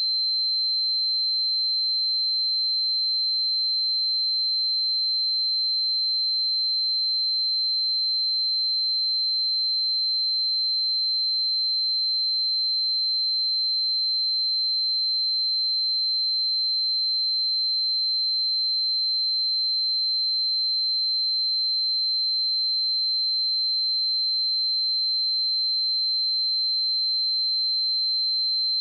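A steady, pure 4108 Hz sine-wave test tone, a single high-pitched note held at constant level without change.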